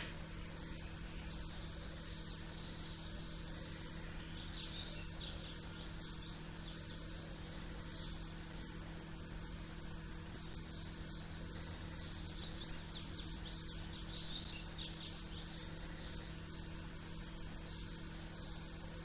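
Small birds chirping and twittering in quick high bursts, a cluster about four seconds in and a longer run from about eleven to fifteen seconds, over a steady low hum and background noise.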